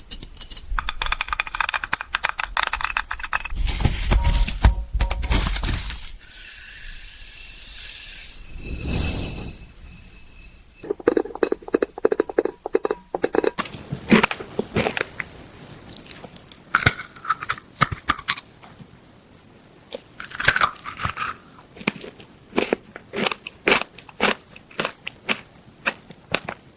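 Close-miked ASMR trigger sounds: crisp crunching, crinkling and tapping, a long irregular run of sharp clicks and rustles with a heavier rumbling stretch a few seconds in.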